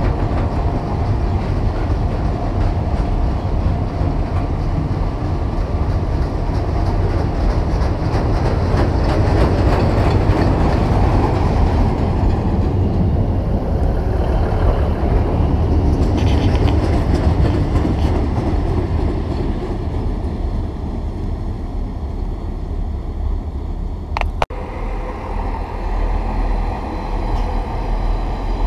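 Freight wagons loaded with steel coils rolling past on the rails with steady, loud wheel noise, then a diesel multiple unit running past close by. About three-quarters of the way through the sound breaks off suddenly and another diesel multiple unit's low engine and wheel noise takes over.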